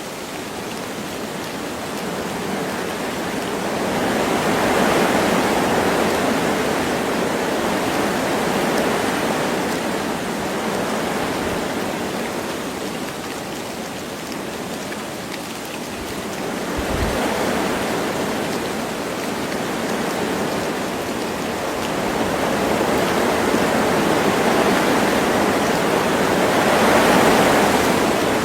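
Wind blowing through forest trees, rising and falling in slow gusts, with light rain.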